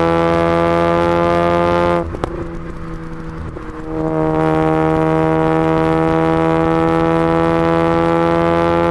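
Mazda RX-8 rotary engine, straight through a stainless aftermarket exhaust and decat pipe, held at steady high revs with a droning tone. About two seconds in, the throttle is lifted briefly and there are a few sharp pops. The revs then come back and climb slowly.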